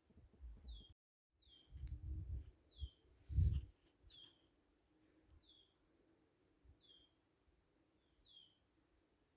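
A bird repeating a two-note call about once a second: a short high note, then a lower note that falls. Low rumbling thumps come about two and three and a half seconds in, the loudest sounds here, and the sound cuts out completely for a moment about a second in.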